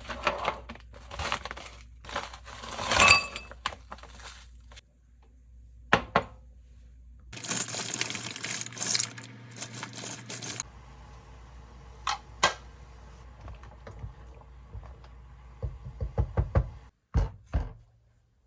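Objects being handled: rustling and light clattering, a dense hissing stretch in the middle, and a few sharp knocks and clicks.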